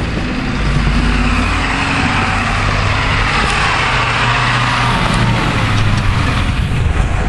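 A motor vehicle's engine running close by, with a rush of noise that swells and fades around the middle, as of a vehicle driving past.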